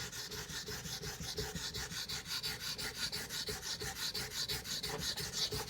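Knife blade being stroked quickly back and forth across a wet whetstone, an even rasping scrape several strokes a second.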